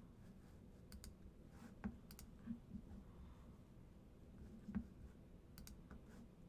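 A few faint, sharp clicks and taps, scattered over a low room hum: a double click about a second in, single clicks around two and two and a half seconds, a louder one near five seconds, and another double click near the end.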